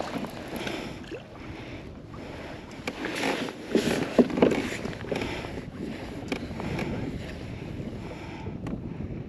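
Water lapping against a kayak hull, with wind on the microphone; the sound grows briefly louder with a few short knocks and splashes about four seconds in.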